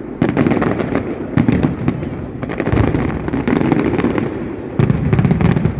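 Fireworks display barrage: a dense, continuous run of bangs and crackling reports, with heavier volleys about a second apart.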